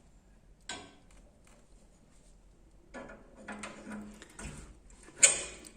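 Firewood crackling in a fireplace as the fire catches: scattered sharp pops, a single one about a second in, then a run of them over the last half with the loudest near the end.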